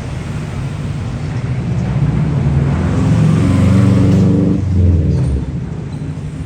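A heavy road vehicle's engine passing by. It grows louder to a peak about four seconds in, dips and picks up again, then fades.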